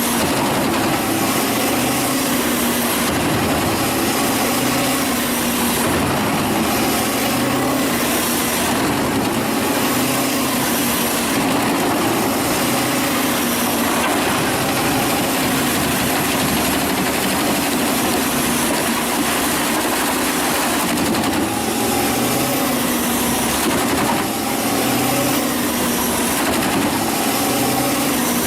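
Wood chipper running steadily, its engine note held under a constant dense noise.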